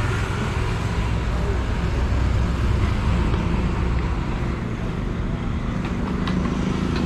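Street traffic noise: vehicle engines running steadily, with indistinct voices in the background.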